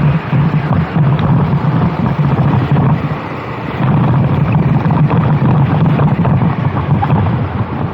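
Go-kart engine running under heavy wind noise on the microphone, easing briefly about three seconds in.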